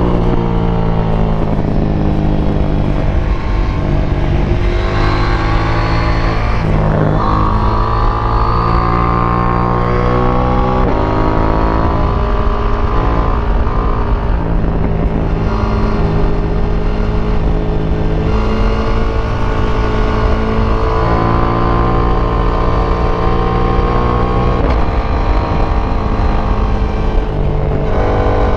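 KTM 890 Duke R's parallel-twin engine through its stock exhaust while riding. The revs climb and fall repeatedly, with sudden drops in pitch at gear changes and on and off the throttle through corners.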